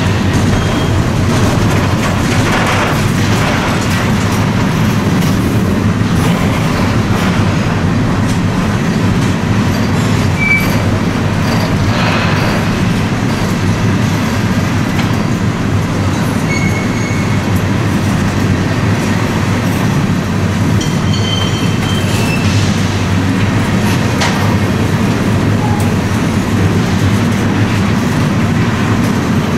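A train rolling past: a steady loud rumble of railcar wheels on the track, with a few short high-pitched squeaks here and there.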